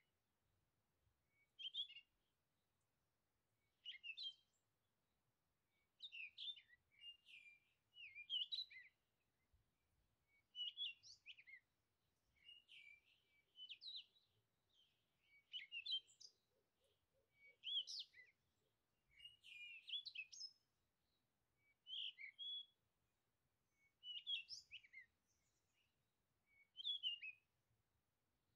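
A songbird singing short, quick, warbled phrases about every two seconds, with near silence between them.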